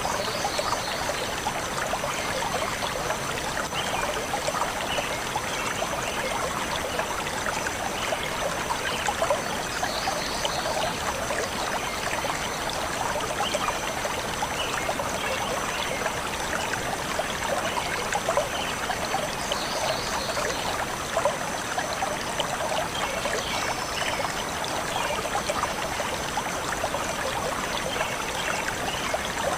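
Stream water flowing steadily, with a few brief high bird chirps now and then.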